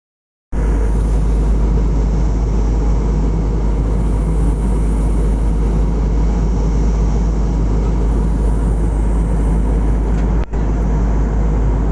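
Steady cabin noise of a passenger airliner in flight: engine and airflow noise, heaviest in the low range. It starts about half a second in and breaks off for a moment about ten and a half seconds in.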